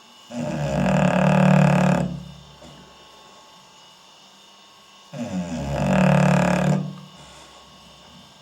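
English Bulldog snoring in its sleep: two loud snores, each about two seconds long, roughly five seconds apart.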